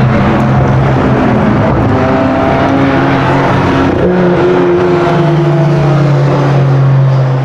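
Sports car engine running loud, its note held steady and shifting in pitch a few times, with a jump up about four seconds in and a drop a second later.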